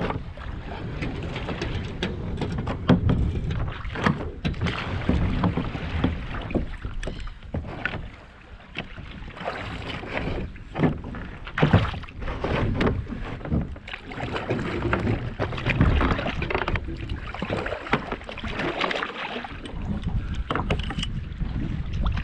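Irregular knocks and clatter over wind noise on the microphone, around a fishing kayak.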